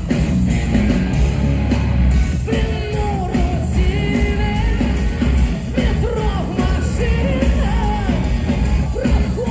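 Live rock band playing loud, heavy rock with pounding drums and bass. A female lead singer's voice comes in about two and a half seconds in, singing and yelling over the band.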